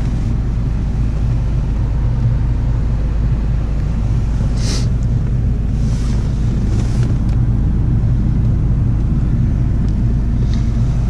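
Ford Mondeo Mk IV engine idling steadily, heard inside the cabin, with a few brief rustles of handling noise near the middle.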